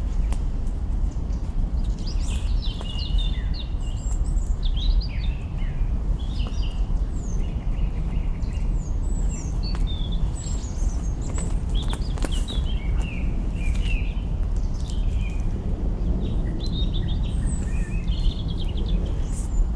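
Small birds chirping and twittering in many short high calls, over a steady low noise, with a few sharp crackles from burning branches in a campfire.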